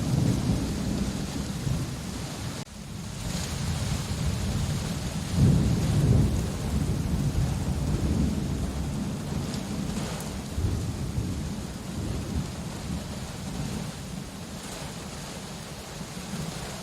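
Steady heavy rain with thunder rumbling underneath; the loudest roll of thunder swells about five to six seconds in. Near the three-second mark the sound drops out suddenly for a moment.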